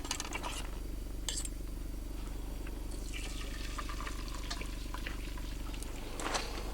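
Omelet frying in a pan, a fine sizzle that thickens about halfway through, over a steady low hum, with a few light clicks.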